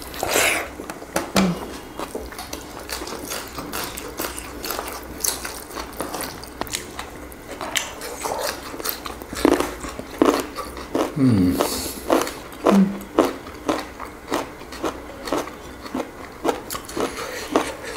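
Close-up eating sounds of people chewing vegetables and omelette: irregular sharp, wet mouth clicks and smacks.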